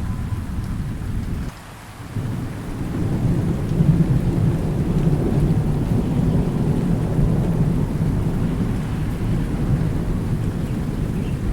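Thunder rumbling low and continuously over steady rain. The rumble drops out briefly about a second and a half in, then swells back, loudest about four seconds in.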